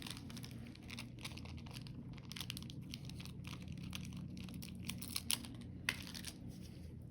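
Faint crinkling and small clicks of cellophane being handled as a royal icing egg transfer is peeled off its cellophane backing, with a couple of sharper clicks about five to six seconds in.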